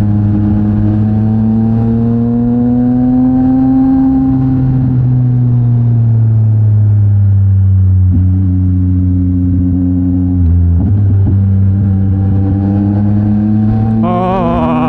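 Yamaha MT-09 SP's three-cylinder engine running through a Mivv X-M50 aftermarket exhaust while the bike is ridden. The engine note rises gently, eases off slowly over several seconds and briefly dips about ten and a half seconds in, then climbs again near the end.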